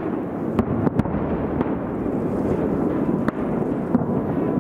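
A large aerial fireworks display heard from about two kilometres away: a continuous low rumble of many shell bursts rolling together, with several sharp cracks standing out above it.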